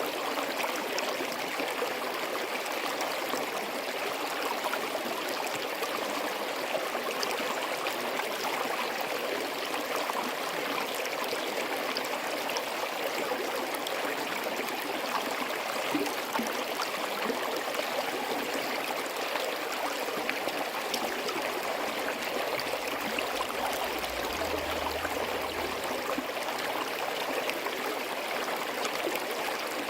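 Small forest stream running over rocks between snow and ice: a steady, unbroken rush of water with a gurgle in it.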